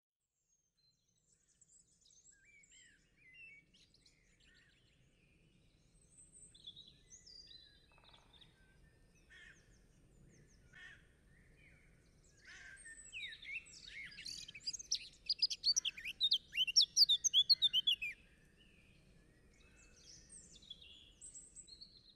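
Songbirds chirping and singing, scattered at first, then a loud run of quick, rapid chirps for several seconds past the middle before tailing off.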